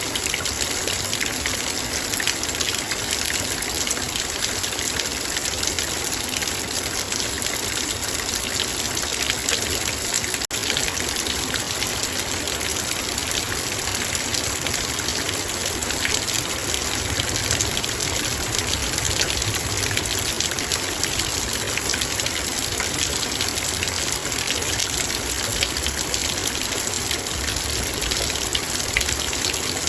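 Heavy rain drumming steadily on a metal bowl, a dense patter of countless drops. A split-second dropout comes about ten seconds in.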